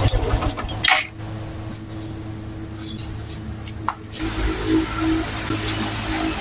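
Small single-cylinder motorcycle engine idling, which cuts out about a second in, followed by quieter handling noise and a faint low hum.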